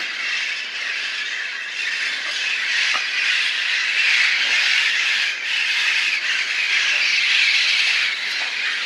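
A large flock of wild parrots squawking all at once: a dense, continuous din of overlapping calls, a little louder in the second half.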